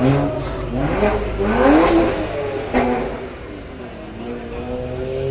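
Car engine revving hard, its pitch climbing in rising sweeps, with a sharp bang nearly three seconds in, then dropping to a lower, steadier running note.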